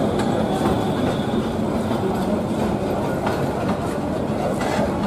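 Passenger train coaches rolling past on the track: a steady rumble with the wheels clattering and clicking over the rails.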